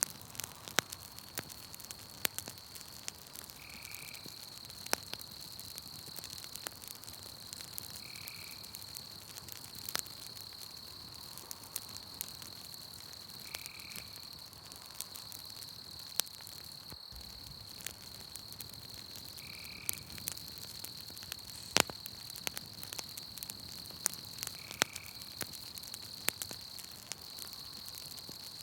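Wood campfire crackling with scattered sharp pops over a steady high-pitched insect trill. A short call, likely a frog's, repeats about every five seconds.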